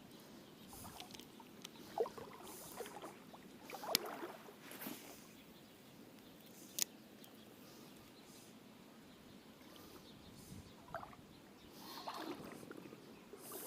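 A common pheasant calling from nearby a few times in short, faint, croaking calls, with a couple of sharp clicks in between.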